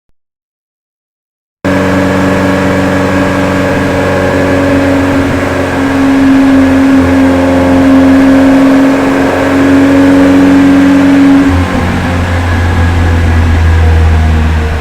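Restored Volvo B18 four-cylinder engine running at a steady speed, starting abruptly after a short silence. Its tone deepens near the end.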